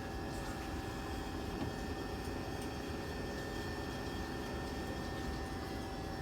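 Class 465 Networker electric train standing still, its equipment giving a steady low hum with two held whining tones.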